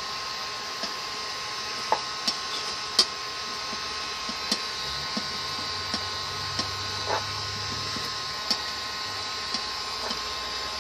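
A steady mechanical hum with a faint whine, like a small motor or fan running, with light clicks and taps scattered irregularly over it, the sharpest one about three seconds in.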